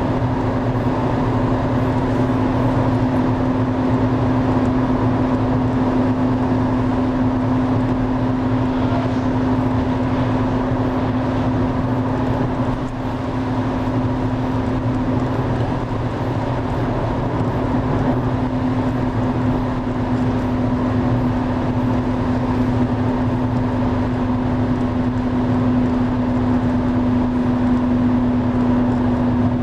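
Steady roar of the Driva river in heavy flood, with a steady low hum running under it.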